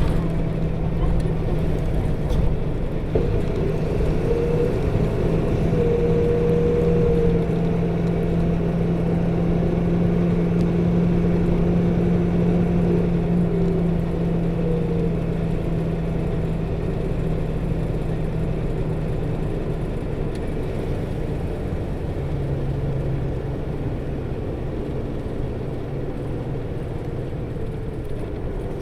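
2008 Nissan Diesel PKG-RA274KAN city bus running under way: a steady engine drone with the whir of its radiator coupling fan, which on this bus is engaged all the time and sounds high for the engine speed. A higher tone wavers up and down early on, and the sound grows gradually quieter through the second half.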